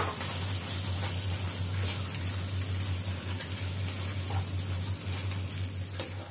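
Soya keema masala sizzling steadily in a non-stick pan while a wooden spatula stirs the granules, with a few soft scrapes and a low steady hum underneath.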